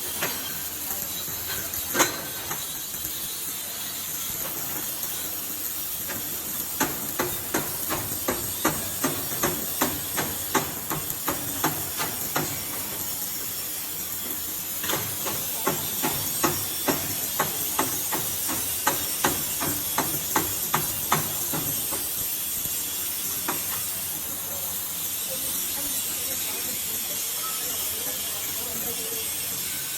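A steady hiss with two runs of quick, evenly spaced metallic taps, about two to three a second, and one sharp tap about two seconds in.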